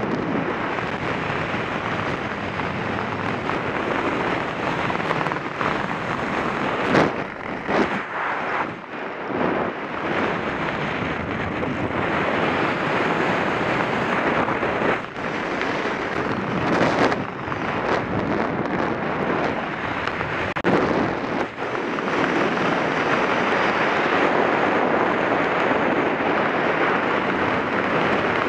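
Loud rushing wind buffeting the microphone, steady with several gusty swells and dips in the middle stretch.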